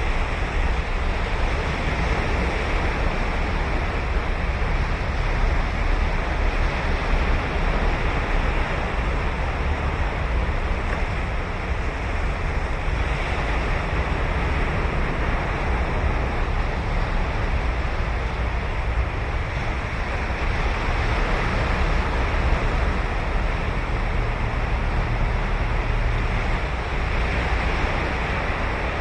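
Ocean waves breaking and washing onto a sandy beach in a steady surf, with a low rumble of wind on the microphone.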